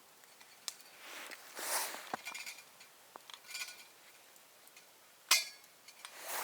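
Scattered rustling and light clinks of gear being handled, with one sharp, louder clink about five seconds in.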